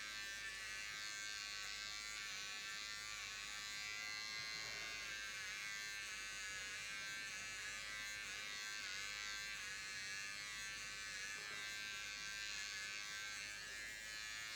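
Electric pet hair clippers buzzing steadily as they shave matted fur from a small dog's coat, the pitch wavering slightly. They switch off abruptly near the end.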